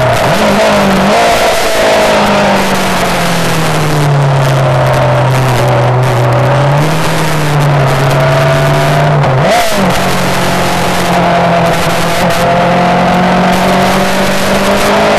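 Yamaha R6 inline-four sport-bike engine running hard on track. The engine note steps and sweeps in pitch through gear changes, with a sharp blip about two-thirds of the way through, over a constant rush of wind noise.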